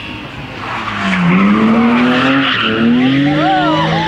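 Historic rally car accelerating hard, its engine note climbing, dipping at a gear change, then climbing again, with tyres squealing as it slides.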